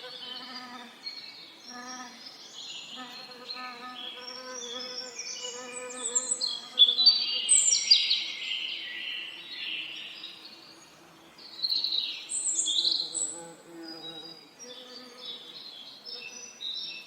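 Several songbirds singing with quick high chirps and trills, loudest about halfway through and again near three quarters, over the low, wavering hum of bees buzzing that fades in and out.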